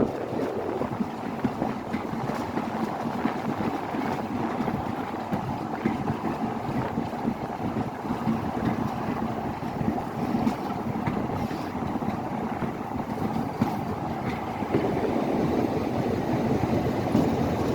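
Heritage railway train running, a steady rumble with wind on the microphone; the sound gets louder and fuller about fifteen seconds in.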